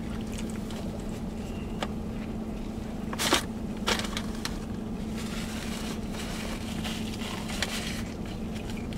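A person chewing a mouthful of Big Mac, with scattered wet clicks and smacks, the loudest about three seconds in, over a steady low hum in the car cabin.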